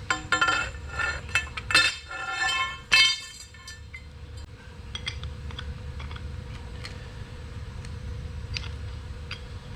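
Metal pieces clanking and clinking together with a bright ringing, several hits in the first three seconds or so. After that a low steady hum with a few faint ticks.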